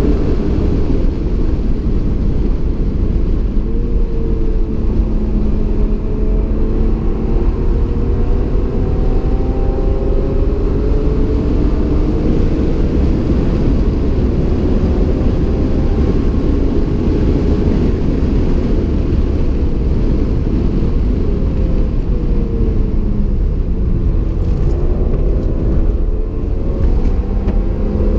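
A stock 1994 BMW M3 E36's 3.0-litre straight-six engine, heard from inside the cabin at track speed. Its pitch rises and falls repeatedly as the car accelerates, lifts and shifts, over steady low road and wind noise.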